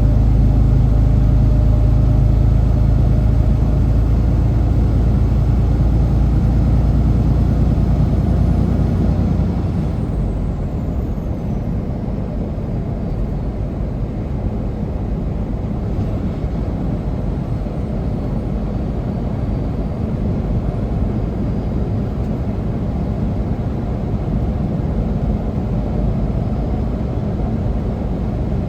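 Semi truck engine running steadily with a deep hum. About nine seconds in it gives way to a quieter, even rumble.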